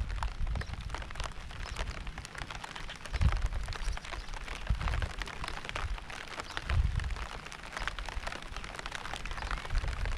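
Rain falling, with a steady hiss and many small drop ticks. Low rumbles swell up briefly a few times.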